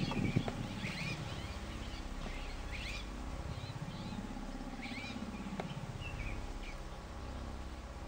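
Birds calling in short, high chirps, repeated every second or two, over a low steady rumble.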